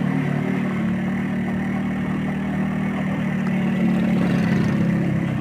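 Yamaha RX Special's 115 cc two-stroke single-cylinder engine running steadily through a stock RX King exhaust as the motorcycle rides along, getting a little louder about four seconds in.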